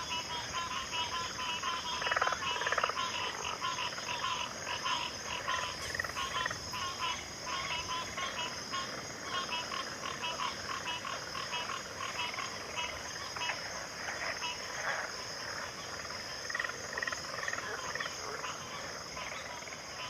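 Backwater chorus of frogs and insects. Many frogs call in fast pulsed trills over a steady, high-pitched insect drone, with a louder burst of calls about two seconds in.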